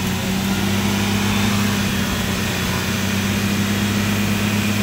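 Off-road vehicle engine running at a steady speed, an even hum with no change in pitch.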